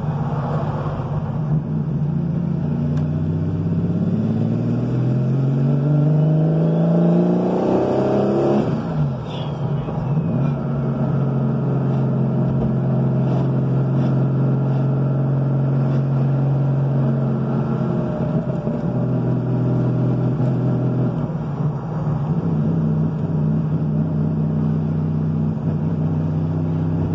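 Porsche 934-style turbo flat-six heard from inside the cabin, pulling away with a rising engine note for about eight seconds, dropping sharply at a gear change, then cruising at a steady pitch, dipping slightly about two-thirds of the way through.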